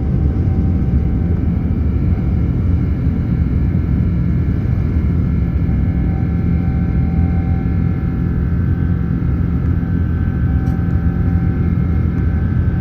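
Cabin noise inside a Boeing 787-9 airliner: engine and airflow noise as a steady, loud low rumble. Faint whining tones sit above it and grow a little stronger in the second half.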